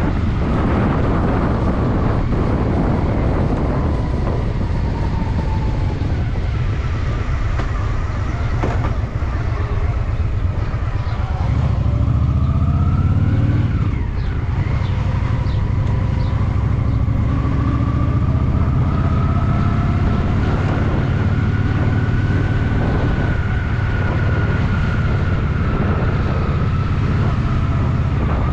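Honda Shadow VT750's V-twin engine running under way, a steady low rumble with wind on the microphone. About twelve seconds in it pulls harder and rises in pitch, then drops back, and later the pitch climbs slowly again as the bike accelerates.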